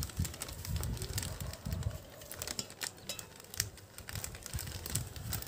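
A child drinking from a metal water bottle: irregular small clicks and knocks from handling the bottle and its cap, with soft low thumps of swallowing.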